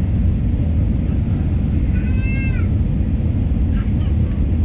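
Steady low rumble of an airliner cabin in flight, engine and air noise. About two seconds in, one short high call rises above it, dropping in pitch at its end.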